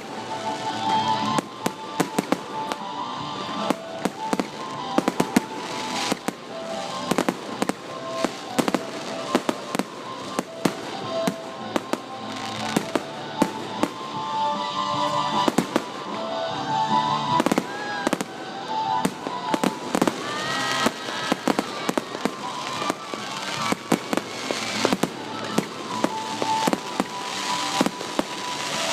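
Fireworks going off in a dense, irregular string of sharp bangs, several a second, with music playing underneath.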